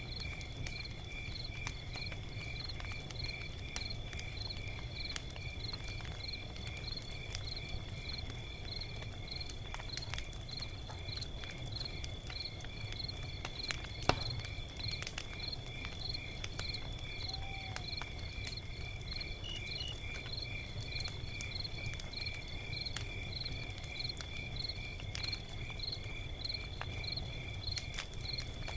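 Log fire crackling with scattered sharp pops, one louder pop about halfway, over a low steady rumble, while crickets chirp in an even, quick rhythm.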